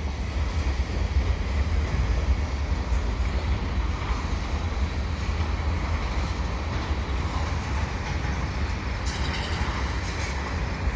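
Cars of a heavy, slow freight train, mostly loaded hoppers, rolling past: a steady low rumble of steel wheels on the rails.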